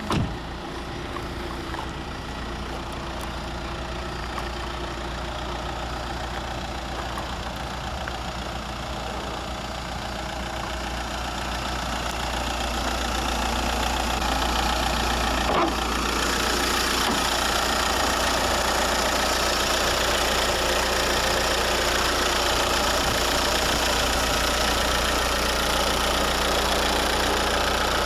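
Škoda Superb's 1.9-litre four-cylinder TDI PD turbodiesel idling steadily. It gets louder about halfway through, with a short click around the same time.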